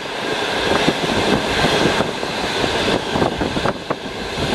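Passenger train running at speed, heard from inside a carriage by the window: a steady rush and rumble of wheels on rails, with many small irregular clicks and knocks from the track.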